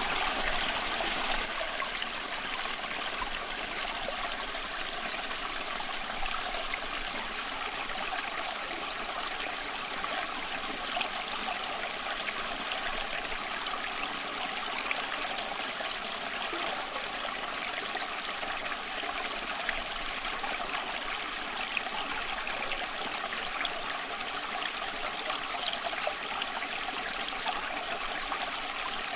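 A small stream running steadily over stones, an even rushing with fine splashes and trickles.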